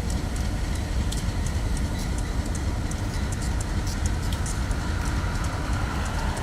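A train passing: a steady, heavy low rumble with scattered sharp clicks from the wheels on the rail, and a faint whine coming in near the end.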